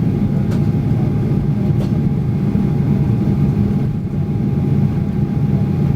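Cabin noise inside a Boeing 737 taxiing after landing: a steady low rumble from the engines and the rolling airframe, with a thin steady whine above it.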